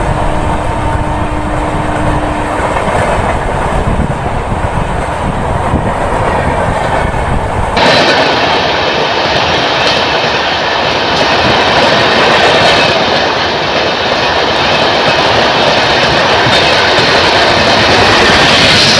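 Express train passing at speed, its coaches clattering and rumbling over the rails, with a horn tone that cuts off about two and a half seconds in. About eight seconds in the sound changes abruptly to a brighter hissing rush with less low rumble.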